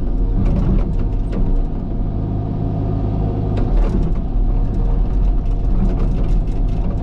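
Cat excavator's diesel engine running steadily under working load, with a few short knocks from the machine as it digs.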